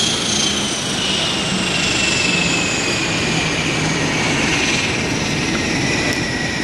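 Lockheed P-3C Orion's Allison T56 turboprop engines running loudly, with a high whine that slowly falls in pitch.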